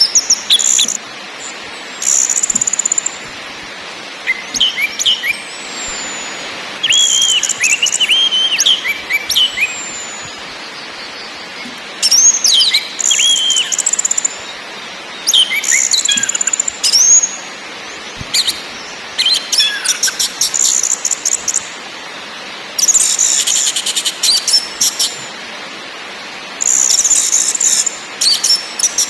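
Orange-headed thrush calling: repeated harsh, rapid chattering bursts alternating with short down-slurred whistles, over a steady hiss.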